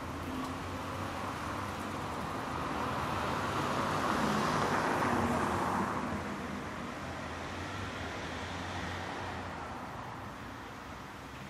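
City street traffic: a car passes by, its tyre and engine noise swelling to a peak about halfway through and then fading away, over a steady low hum of traffic.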